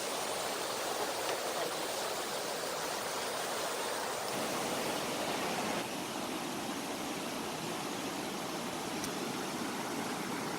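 River water flowing and splashing over a shallow stream bed, a steady rushing sound; its tone shifts a little about four and again about six seconds in.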